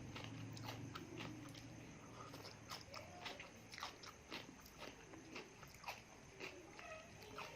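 Close-miked chewing of food, with a run of sharp, wet mouth clicks and crunches every fraction of a second.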